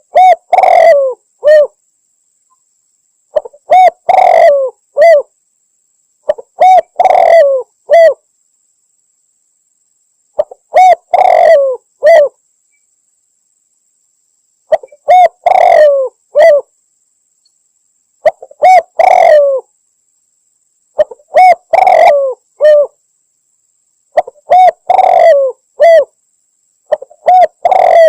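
Spotted dove (tekukur) cooing in short repeated phrases of a few notes each, about one every three to four seconds. It is a lure-call recording used to draw in male doves, and is said to be a female calling a male.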